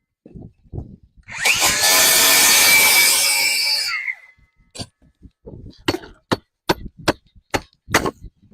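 Power saw cutting through roof shingles and wood decking in a short burst of about three seconds, its motor whine winding down as it stops. Then a string of sharp knocks.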